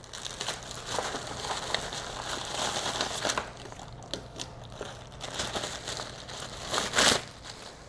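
Paper and packaging being handled and unfolded, rustling and crinkling unevenly, with a louder crinkle about seven seconds in.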